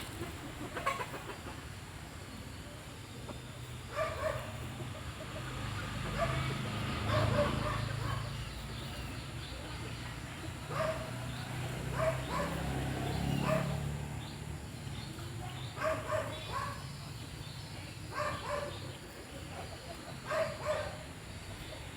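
Chickens clucking in short, scattered calls, often two or three close together, over a low rumble in the background.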